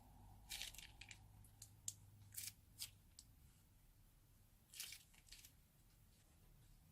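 Faint, short crackles and snips in a few irregular clusters, from slime and plastic piping bags being handled.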